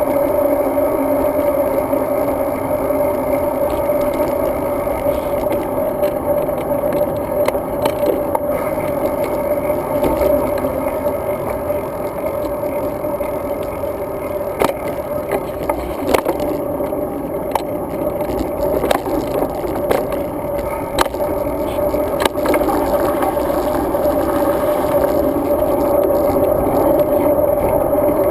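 Riding noise of a road bicycle picked up by a GoPro on the bike or rider: a steady mix of wind and rolling tyre noise with a constant drone. Scattered sharp clicks and rattles from bumps come mostly in the second half.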